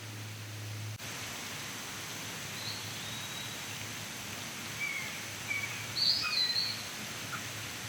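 Outdoor ambience: a steady hiss with small birds chirping several times, in short calls. A low hum is present for the first second, then stops abruptly.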